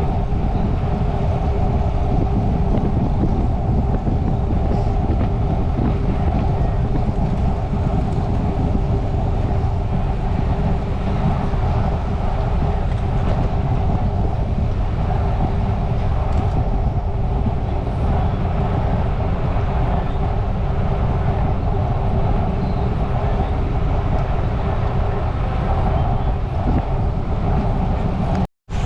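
Steady rush of wind on the microphone and road noise from a bicycle riding along, with an even hum running under it. The sound cuts out for a moment just before the end.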